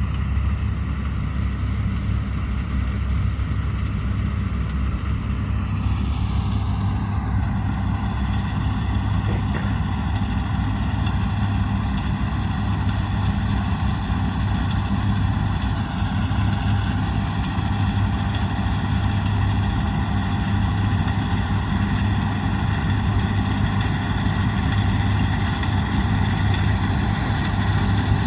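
Large diesel farm machine running steadily, with a deep hum under a layer of whining tones. About six seconds in, the whine drops in pitch and then holds steady.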